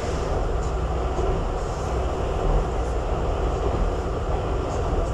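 Railway train running: a steady low rumble with faint scattered ticks.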